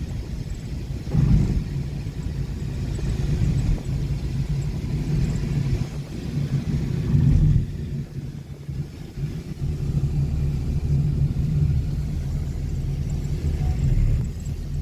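A motor vehicle running, heard as a steady low engine and road rumble with no sharp events.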